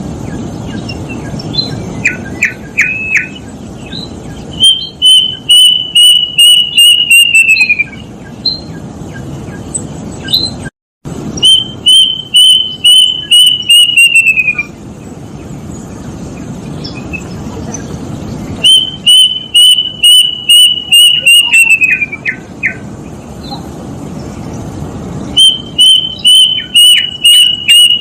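Plaintive cuckoo (kedasih) singing: four runs of about eight to ten clear whistled notes, each run holding its pitch and then sliding down at the end, spaced several seconds apart. A steady low hiss lies under the song.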